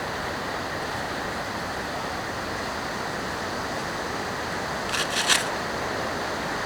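Steady rain falling, with two brief sharp taps close together about five seconds in.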